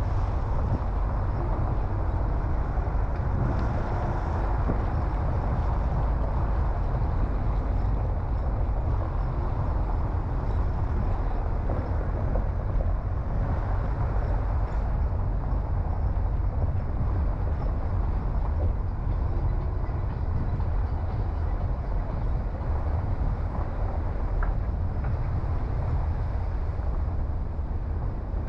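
Steady road noise of a car driving: a continuous low rumble of tyres and engine with no sudden events.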